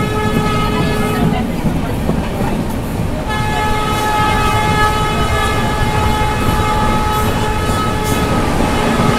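Train horn sounding a short blast of about a second and a half, then, after a gap of about two seconds, a long held blast of some six seconds, over the steady rumble of the moving train.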